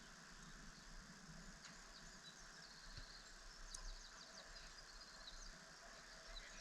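Faint birdsong over a quiet outdoor background: a small bird sings runs of quick, high chirps from about two seconds in until near the end.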